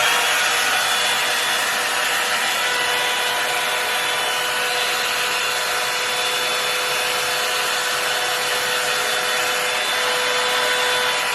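Revlon One-Step hot-air blow dryer brush running steadily, a constant rush of air with a faint steady motor whine, as it blow-dries hair.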